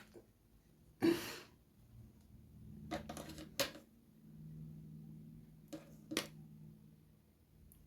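Several sharp clicks and taps of small objects being handled, the loudest about a second in, over a faint low hum in the middle.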